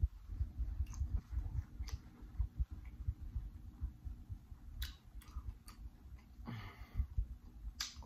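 Close-miked chewing of food, with wet mouth smacks and sharp clicks, and a short breathy hiss about six and a half seconds in.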